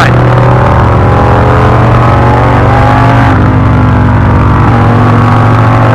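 Indian V-twin motorcycle engine running steadily under way, its pitch drifting slightly up and down.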